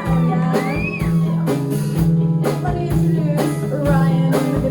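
Live band playing a rock song, with a steady beat of about two hits a second under bending melodic lines.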